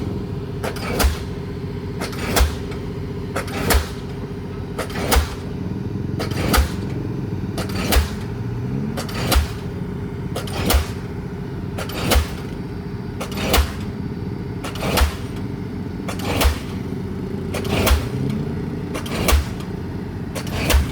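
Diesel pile hammer driving a pile: a sharp bang roughly every one and a half seconds at a steady rate, over the continuous drone of a machine engine.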